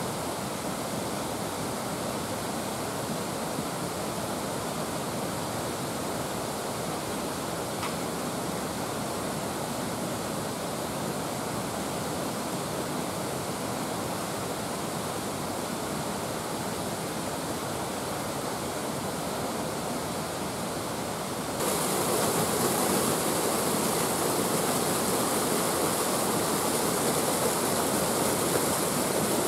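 Steady rush of falling water. About 22 seconds in it turns suddenly louder and hissier.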